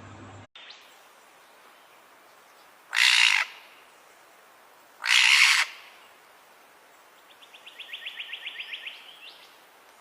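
A bird calling: two loud, harsh squawks about two seconds apart, then a quick trill of rapid repeated notes.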